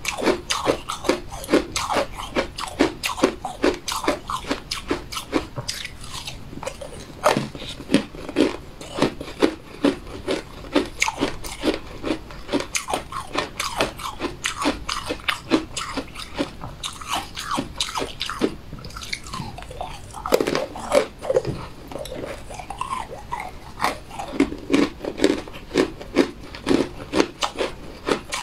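Close-miked chewing of crunchy cookies: a person biting and crunching, several crisp crunches a second throughout.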